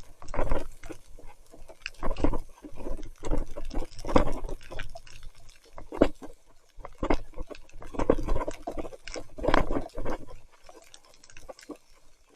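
Wet splashing and gurgling from tyres and rain in deep mud, in irregular loud bursts about every second or two.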